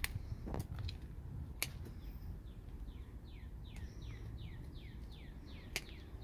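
A bird singing a series of falling whistled notes, about three a second, starting about halfway through, over a low outdoor rumble. A few sharp clicks stand out, one near the start and one near the end.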